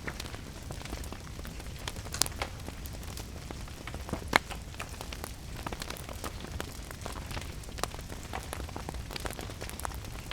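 Wood fire crackling with scattered sharp pops, two of them louder about two and four seconds in, over a steady hiss of rain.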